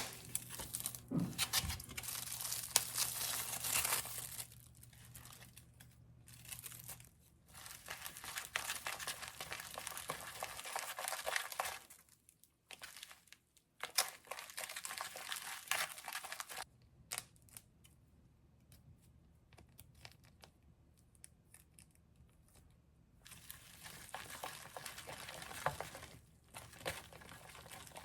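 Crinkling and rustling of something being handled, in four bursts separated by quiet pauses, with a sharp click at the very start.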